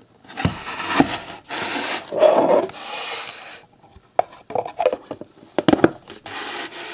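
Die-cast toy cars being pressed back onto a hard plastic display case base, with rubbing and scraping handling noise broken by several sharp clicks as they clamp in place.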